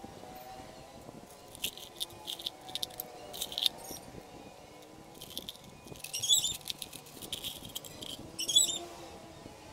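Small birds chirping in several short bursts of quick, high calls, loudest about six seconds in and again a little before the end.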